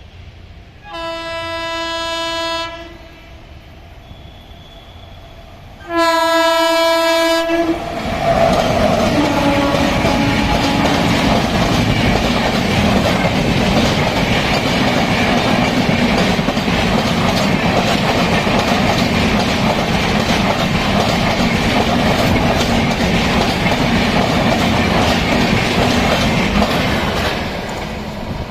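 WAP7 electric locomotive sounds two blasts of its air horn, then an express train passes at high speed with a loud steady rush of wheels on rail. The rush lasts about twenty seconds and eases off near the end.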